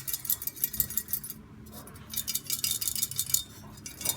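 Stronger AWG exhaust flame arrester rattling with a metallic jingle in two bouts of quick clinks. The rattle comes from glass wool packing that has clumped into hard lumps and knocks about inside the metal body.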